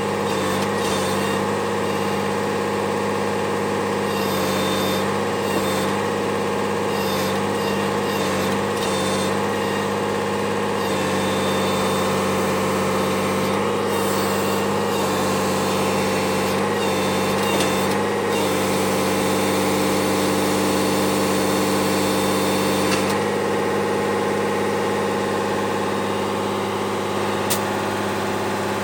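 1988 Unimog SEE tractor's diesel engine running at a steady speed.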